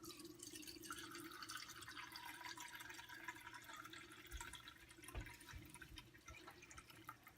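Faint trickling and dripping of water being poured in, the 250 millilitres measured out for boiling.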